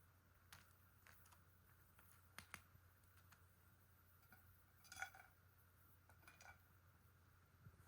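Near silence with a few faint clinks and taps of kitchenware being handled, the loudest about five seconds in, over a faint low steady hum.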